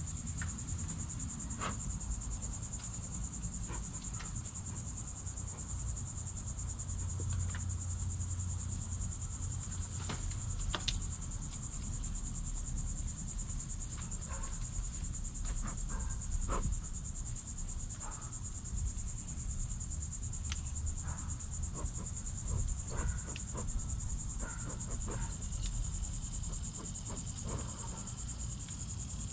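A steady, high-pitched chorus of crickets trilling without a break, with a low rumble underneath and scattered faint clicks and knocks.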